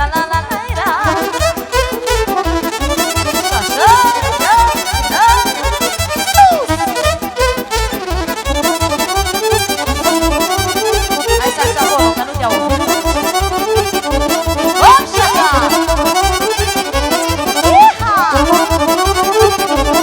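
Live Romanian party music played without singing: an accordion-led band runs through a fast, ornamented melody over a steady, quick bass-and-drum beat.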